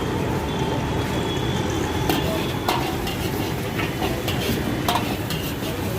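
Rice being stir-fried in a wok: a steady sizzle with scattered sharp clinks and scrapes of a metal spatula against the pan.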